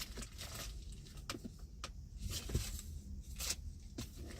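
Scattered soft clicks and rustles of small objects being handled, over a low steady hum.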